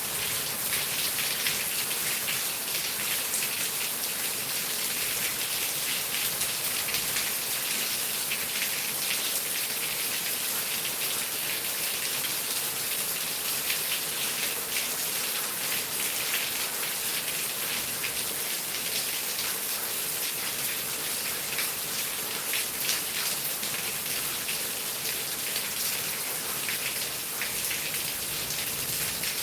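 Heavy rain falling steadily, a dense hiss of drops hitting surfaces.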